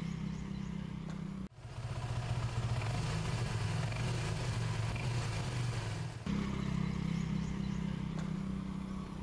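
Motorcycle engine idling with a steady low hum. About a second and a half in it is cut off by a louder, noisier stretch lasting about five seconds, and then the same idle returns.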